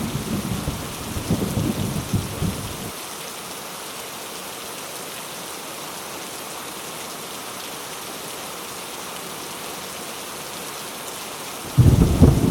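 Heavy rain falling steadily with rolling thunder. A low thunder rumble dies away about three seconds in, leaving just the hiss of rain, and near the end a loud rumble of thunder breaks in suddenly.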